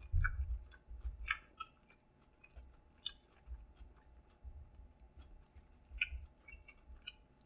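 A person chewing a mouthful of fried chicken sandwich: faint, irregular mouth clicks and smacks, busiest in the first second or so and again around six seconds in.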